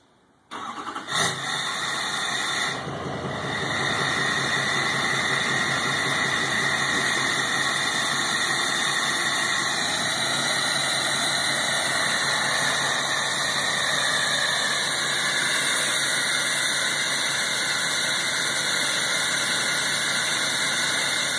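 Duramax LML 6.6-litre V8 turbo-diesel with its DPF and catalytic converter deleted and a 4-inch straight pipe, heard at the tailpipe: it starts about half a second in and settles into a steady idle. The exhaust has a real airy, blowing sound, like a hair dryer or vacuum.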